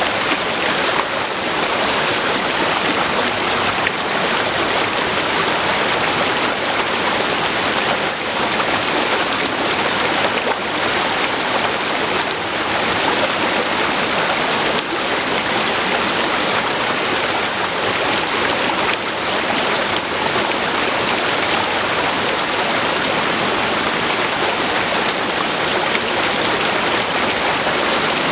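River water flowing over rocks, a steady full rushing and babbling.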